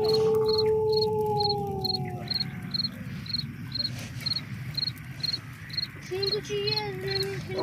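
A cricket chirping steadily, about two chirps a second. Over it, a long drawn-out howl fades away about two seconds in, and a lower howling note starts up again near the end.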